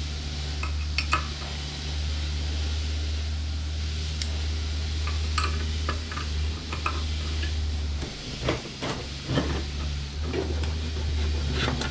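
Metal hand tools clinking and knocking against metal parts of the mower's blower fan, a few scattered taps over a steady low hum that stops about eight seconds in.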